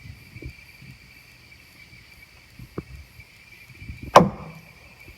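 Night insects chirring steadily, with faint low thumps and, about four seconds in, one loud sharp knock or crack.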